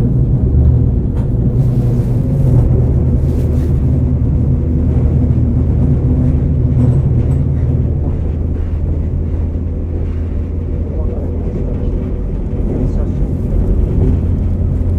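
KiHa 47 diesel railcar running along the line, heard from inside the cabin: a steady low diesel engine drone with rumbling rail and running noise, muffled as if recorded from a pocket.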